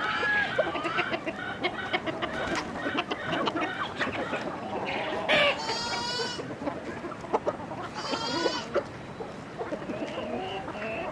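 Chickens clucking and calling, with many short sharp clicks and taps among the calls. Two louder, higher warbling calls stand out in the middle.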